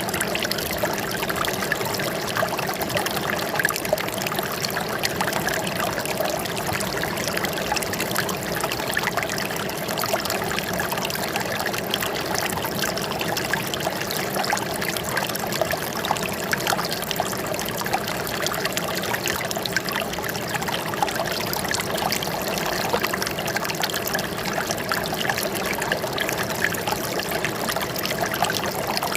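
Water flowing and trickling steadily, with a dense patter of small splashes, as of a shallow stream running over stones.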